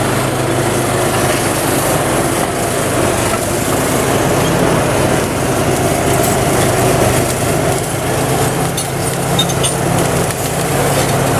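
Bulldozer's diesel engine running steadily during topado (clearing of native scrub forest).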